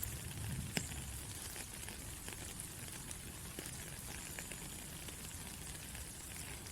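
Steady rain falling, with individual drops ticking on a surface and one sharper drip a little under a second in.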